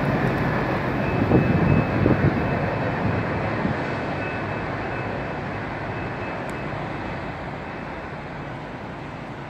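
Freight train moving away on the rails: a low rumble of its cars that fades steadily.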